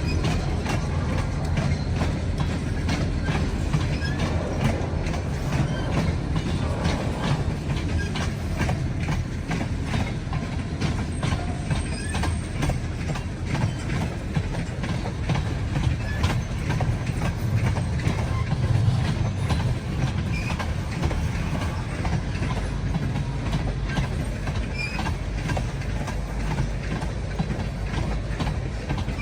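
Freight train cars rolling past: a steady low rumble with rapid clicking of the wheels over the rail joints.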